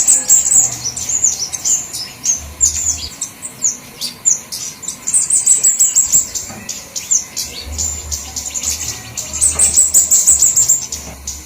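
Flowerpeckers (cabe-cabean) calling in a bird-lure recording: a dense chatter of very high, thin, rapid chirps, with short lulls between the busiest runs.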